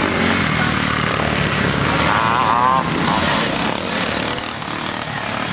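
Motocross bikes racing, their engines running hard and revving up and down, with one bike's engine note rising and falling about two seconds in.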